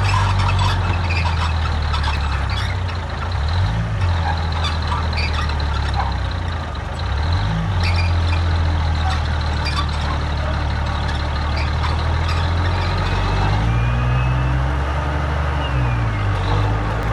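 Heavy diesel engine of earthmoving machinery running under load. Its pitch dips briefly a few seconds in and again around the middle, then rises for a couple of seconds near the end.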